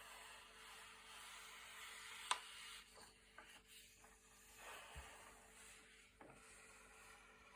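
Thick glossy paper pages being turned and smoothed by hand: soft rustling and sliding, with a crisp snap of a page about two seconds in.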